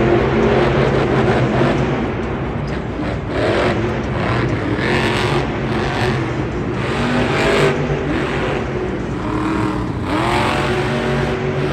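Monster truck engine revving repeatedly, its pitch climbing and dropping several times over a steady loud rumble.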